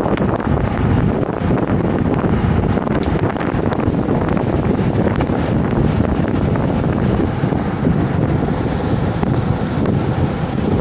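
Steady wind rush buffeting the microphone aboard a Tornado RIB running at planing speed, with the boat's motor and hull on the water beneath it.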